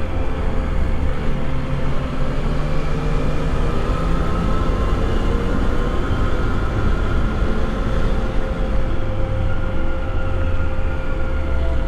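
Yamaha FJ-09's inline three-cylinder engine running while riding, its note slowly rising and falling with the throttle, over a steady rush of wind.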